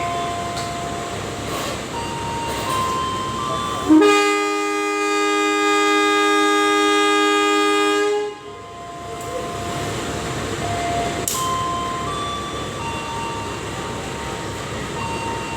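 Locomotive horn sounding one long blast of about four seconds, a chord of several notes, starting about four seconds in and cutting off sharply, over the steady rumble of a train running.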